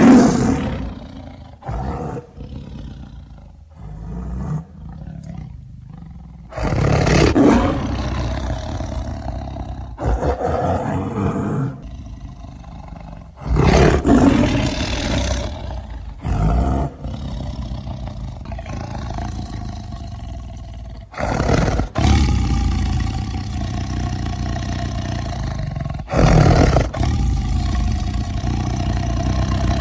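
A series of deep big-cat roars and growls presented as the sound of a saber-toothed cat (Smilodon), an extinct animal, so a reconstructed sound effect. A new roar begins every few seconds, some breaking off abruptly.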